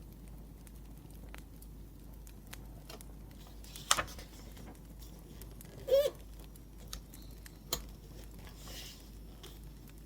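Wood fire crackling: a steady low hiss with scattered small crackles and a few louder pops, the loudest about six seconds in.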